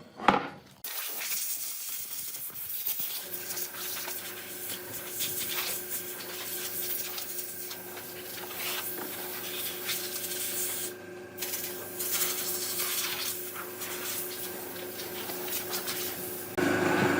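Workshop work noise: a rough rubbing, rasping sound with many short strokes, joined from about three seconds in by a steady motor hum. It gets louder just before the end.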